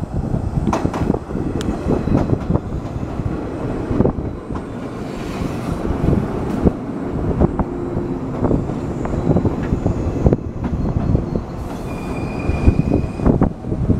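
Six-car JR 115 series electric train running into the station along the platform: a steady rumble with wheels knocking over the rail joints. A short high wheel squeal comes near the end as it brakes to a stop.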